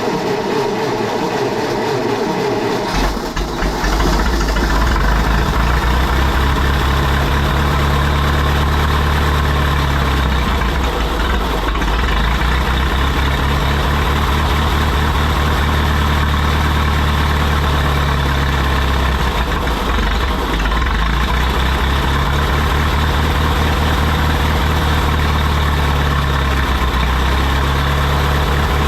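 John Deere 170 skid steer's engine running steadily. A deep, steady low tone sets in about three seconds in, and a slightly higher note swells and fades every few seconds.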